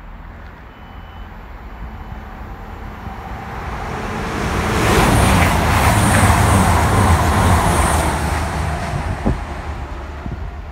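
A train passing through at speed. Its noise builds over a few seconds, stays loud for about three seconds, then fades, with a single sharp knock near the end.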